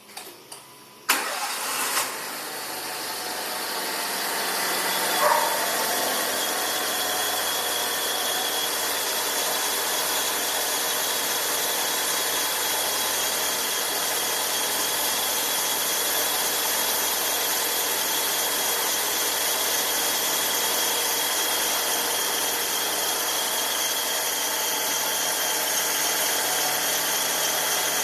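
Fiat Uno Vivace engine started from fully cold, catching about a second in, then idling steadily with a high-pitched squeal or chirp. This is a noise that occurs only when the engine is fully cold and goes away once it warms up; the owner suspects the accessory belt.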